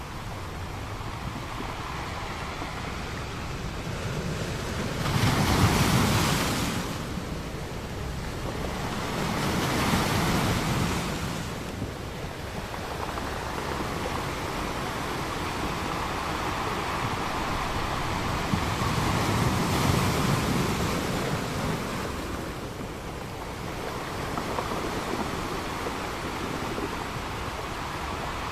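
Ocean waves breaking on a beach and washing in, in slow swells; the largest wave breaks about six seconds in, with further breakers around ten and twenty seconds.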